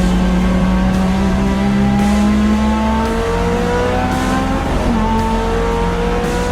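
Honda B16 four-cylinder engine pulling under acceleration, its pitch climbing steadily, dipping once about five seconds in, then climbing again.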